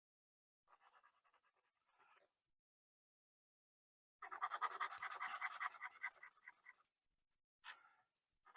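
A sanding stick rubbing back and forth over a small plastic model part, grinding a broken peg flat. It starts faintly about a second in, and from about four seconds in comes a louder run of quick, even strokes lasting about two and a half seconds. One short rub follows near the end.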